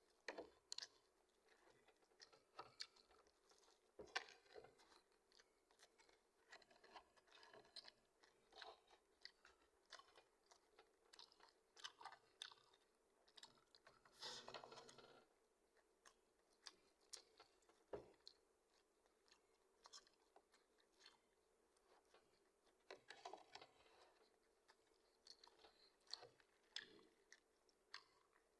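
Faint close-up eating sounds: fried chicken being bitten and chewed, with irregular soft crunches, one longer, louder crunch about halfway through.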